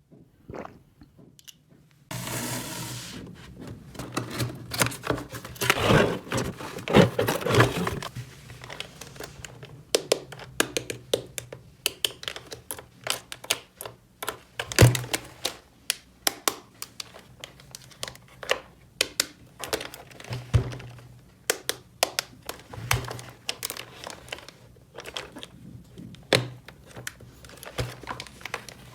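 Small plastic toy pieces being handled and set down: many sharp clicks and knocks at irregular intervals, with a denser stretch of rustling and crinkling in the first few seconds.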